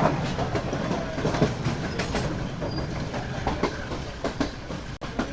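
Passenger train coach running on the rails: a steady low rumble with irregular clacks and knocks from the wheels and carriage.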